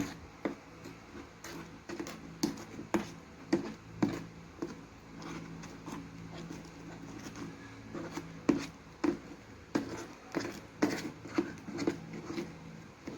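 A spoon stirring wet slime of clear glue, water and glitter in a small dish: irregular clicks and taps of the spoon against the dish.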